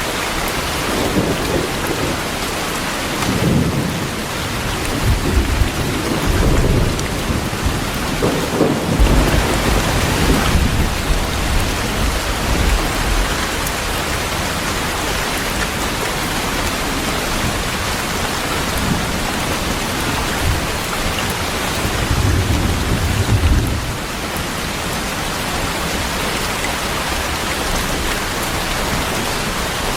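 Heavy rain falling steadily, with thunder rumbling low through the first ten seconds or so and again briefly about three-quarters of the way through.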